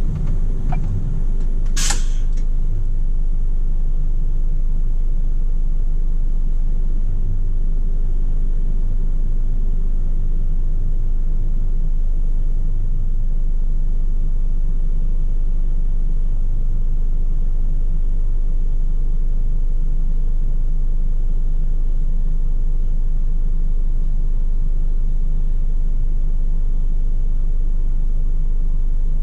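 Scania P400 truck's six-cylinder diesel engine running with a steady low rumble. There is a short sharp noise about two seconds in.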